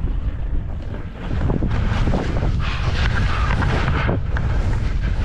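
Wind buffeting the microphone of a skier's camera while skiing downhill, a dense low rumble that grows louder about a second in, with spells of hiss from skis running through snow.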